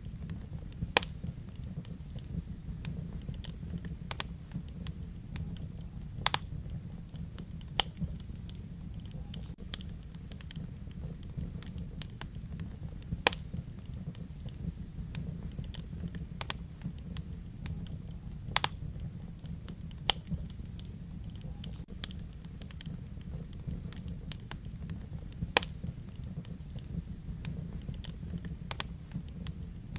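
Wood fire burning in a fireplace: a steady low rumble under irregular sharp crackles and pops, a few of them louder snaps.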